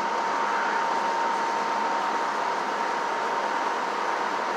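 Steady running noise of machinery, even and unchanging, with a thin constant whine through it.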